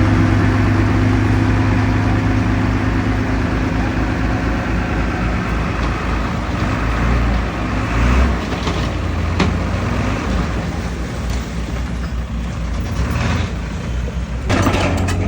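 Heavy diesel engine of earthmoving machinery running, steady at first and then rising and falling with the load, with a few sharp knocks about eight to nine and a half seconds in.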